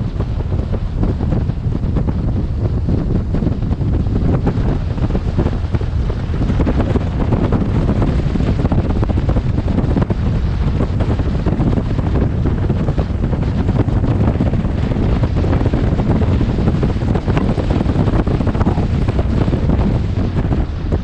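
Wind noise buffeting a helmet-mounted camera microphone on a moving motorcycle: a loud, steady rumble heaviest in the low end, with no speech.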